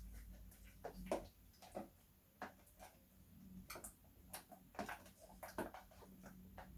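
Homemade slime being squished and worked by hand, giving off faint, irregular clicking pops as trapped air escapes.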